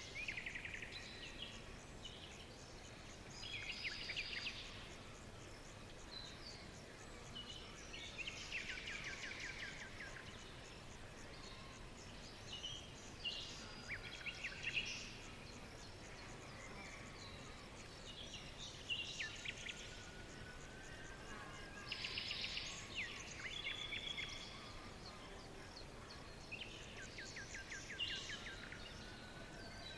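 Songbirds singing in a forest, a new phrase of rapid trilled notes coming every few seconds over a steady soft hiss.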